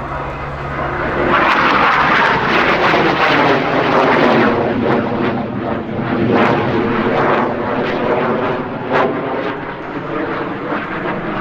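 Alenia Aermacchi M-346 Master jet trainer's twin turbofan engines in a display pass. The jet noise swells loud about a second in with a sweeping, phasing quality as the aircraft flies past, then eases slightly toward the end.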